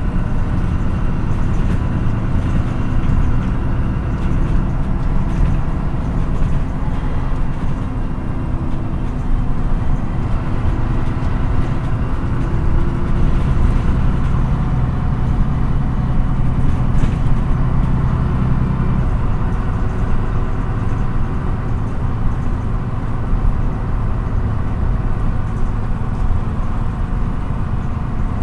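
Interior sound of an MAN NÜ 313 city bus under way, its diesel engine droning steadily with road noise. The engine note rises gently about a third of the way through as the bus gathers speed.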